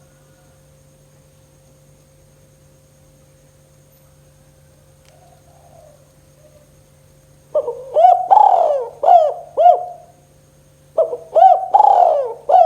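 Spotted dove cooing: two phrases of several rolling coo notes, the first starting about halfway in and the second near the end. A faint steady mains hum runs underneath.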